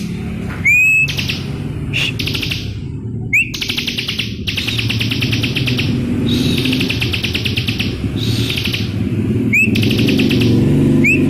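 Bar-winged prinia (ciblek) singing loudly: repeated bursts of rapid, high trilled notes, each about a second long, broken by short rising whistles.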